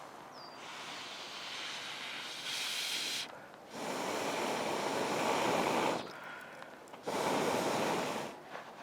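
Someone blowing hard on a campfire to fan the flames: three long rushing blows of air with short pauses for breath between them. The middle blow is the longest and loudest, and the last is short.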